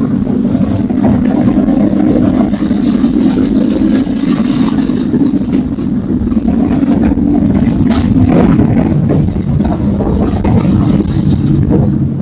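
Motorcycle engine running loud and steady, with only small rises and falls in pitch.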